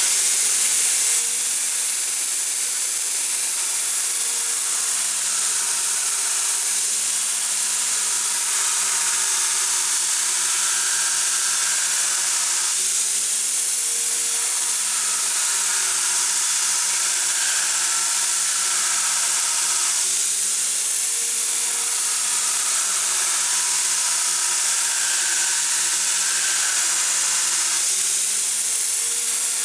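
Electric grinder grinding steel: a steady motor note under a harsh high hiss, the pitch sagging and recovering about every seven seconds as the work is pressed on and eased off.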